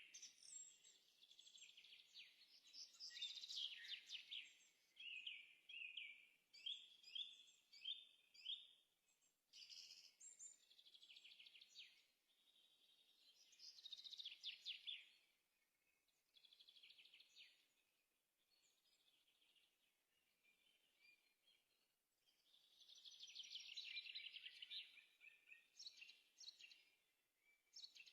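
Faint songbird singing: quick high trills and chirped phrases, each a second or two long, separated by short pauses.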